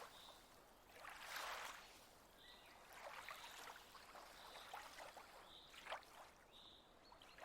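Faint lake ambience: soft swishes of water lapping, coming and going every second or two, with small high bird chirps.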